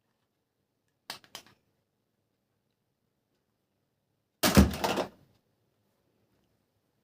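Hard plastic toy-gun parts being handled: two light clicks about a second in, then a louder clatter of several quick knocks and clicks a little past the middle.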